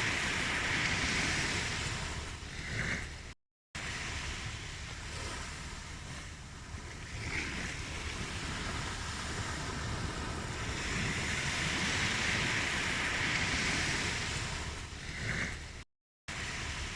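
Ocean surf washing in and drawing back in slow swells. The sound drops out to silence for a moment twice, about three and a half seconds in and near the end.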